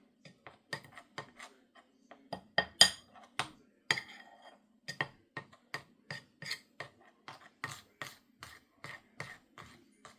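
A spoon scraping and clinking against a bowl while stirring a spice mixture, in quick irregular strokes about two to three a second.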